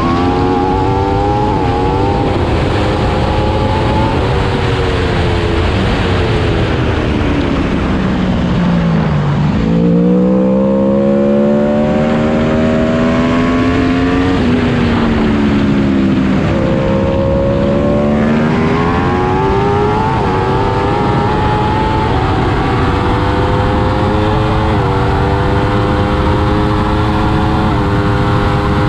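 Aprilia RSV4 superbike's V4 engine heard onboard at speed under heavy wind noise. Its pitch climbs through gear changes, falls away steeply about nine seconds in as the bike slows, then rises and dips again, with quick stepped upshifts near the end.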